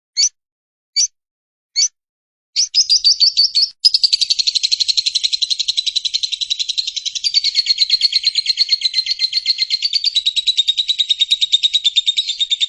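Lovebird ngekek: a few separate shrill chirps, then from about two and a half seconds in a long, fast, unbroken run of repeated chirps. This drawn-out chatter is the 'ngekek panjang' prized in competition lovebirds.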